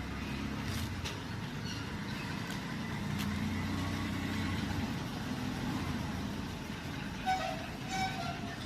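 Motor vehicle traffic: a vehicle engine running with a steady low hum that swells and fades. Near the end come a few short high-pitched sounds.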